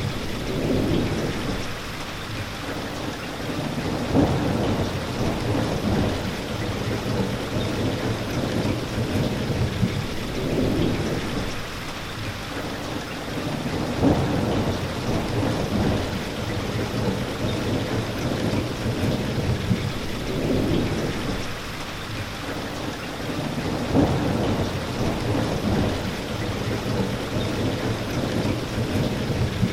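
Steady rain with low rumbles of thunder swelling and fading every few seconds.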